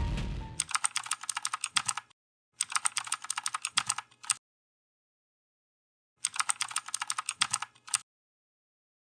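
Three bursts of rapid keyboard typing, quick clicks a second and a half to two seconds long each, separated by dead silence, as an added typing sound effect. Music fades out just before the first burst.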